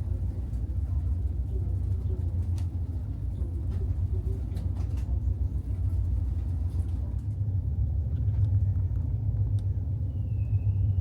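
Steady low engine rumble, with a few faint clicks; about ten seconds in a thin, wavering high tone starts.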